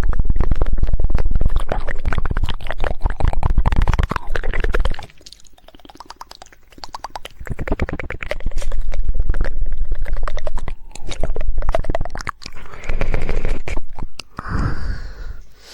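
Rapid 'woodpecker' tongue clicking and wet mouth sounds, in dense runs of quick clicks, with a quieter stretch about five seconds in.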